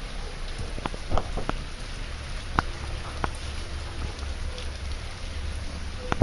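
Heavy rain falling steadily, with a few scattered sharp taps of drops hitting nearby surfaces.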